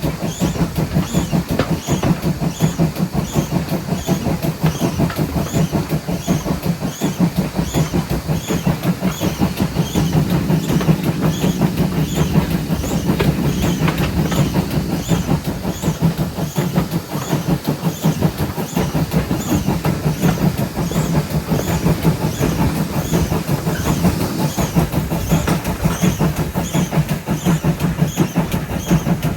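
GWR 5700 class pannier tank locomotive No. 7754 running under way, a steady, fast run of regular beats with a higher hissing pulse recurring about every three-quarters of a second, and wheels on the rails beneath.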